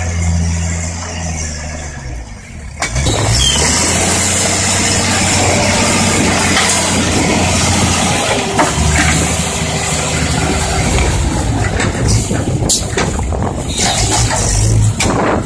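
Heavy diesel engine of a dump truck or excavator running low, its pitch sagging, then about three seconds in a sudden, much louder and noisier stretch of the machine working under load that keeps on to the end.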